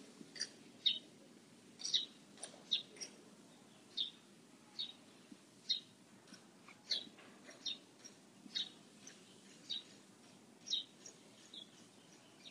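Birds chirping: short high chirps, one or two a second at irregular intervals, over a faint low hum.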